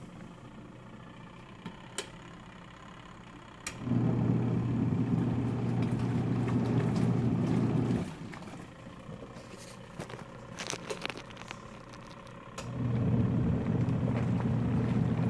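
Twin-tub washing machine's wash motor driving the pulsator during the wash cycle: a low, quiet hum that runs for about four seconds, stops for about four seconds, then starts again near the end, as the pulsator agitates in alternating bursts. A couple of sharp clicks come in the pause before the first burst.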